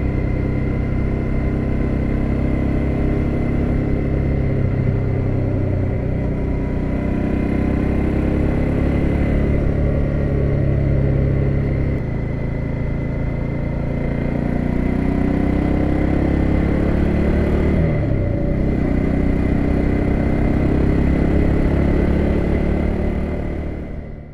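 BMW F650GS motorcycle engine running, its pitch rising and falling with the throttle. Late on its pitch drops sharply and climbs back, and the sound fades out at the very end.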